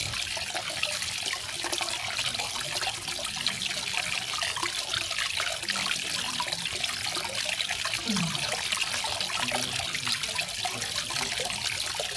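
Small garden waterfall: water falling and splashing steadily, a bright, even rush without pauses.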